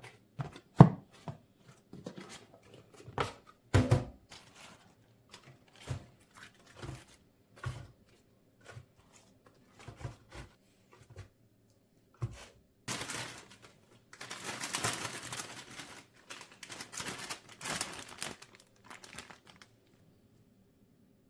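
Kitchen handling sounds: irregular sharp knocks and taps, then about six seconds of crinkling and rustling, as of packaging being handled.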